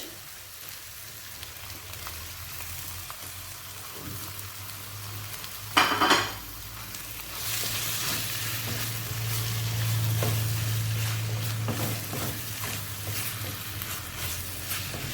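Filling sizzling in a frying pan while it is stirred, just after chicken is added. There is a short loud clatter about six seconds in, after which the sizzling is louder and stays that way.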